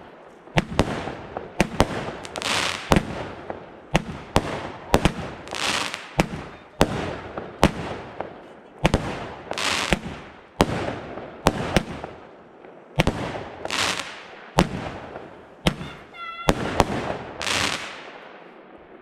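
Consumer fireworks cake of 16 shots firing in rapid succession: a steady run of sharp bangs, about one to two a second, most followed by a brief crackling hiss. The shots thin out and stop near the end.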